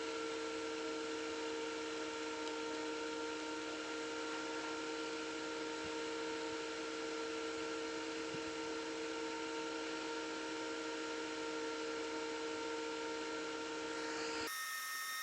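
A small electric motor, such as a hobby rotary tool, running at a steady speed with an even whine and hiss. Near the end it gives way abruptly to a different, higher-pitched whine.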